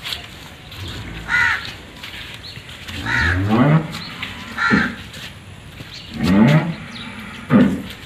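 A bird calling several times in short calls, with snatches of a person's voice between them.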